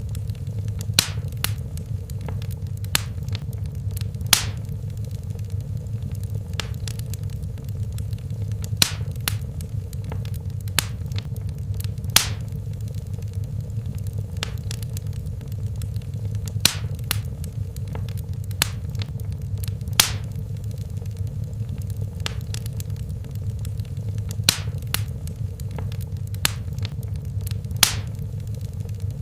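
Wood fire burning in a fireplace: a steady low rumble of flames with sharp crackles and pops at irregular intervals, often a second or two apart.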